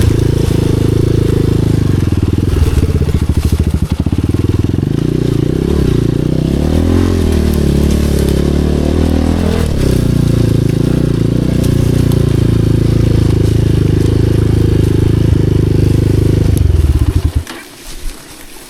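Dirt bike engine running, its pitch rising and falling for several seconds in the middle, then the engine cuts off about seventeen seconds in.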